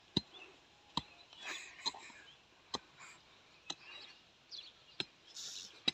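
Sharp knocks about once a second, like a hand hoe striking the soil while digging planting holes, with faint bird chirps.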